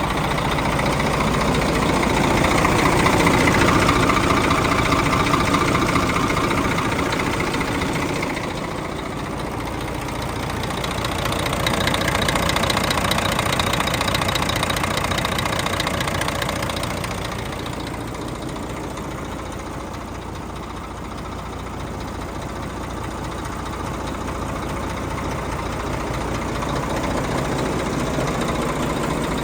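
Scania P114 dump truck's diesel engine idling, the sound swelling louder and fading in slow waves over several seconds.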